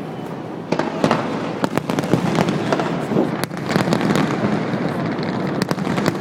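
Aerial fireworks going off in a rapid, irregular run of bangs and crackles over a continuous rumble of noise. The bangs come thicker from about a second in.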